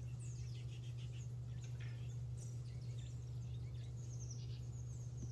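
Small birds chirping, with many short, quick, high calls scattered through, over a steady low hum.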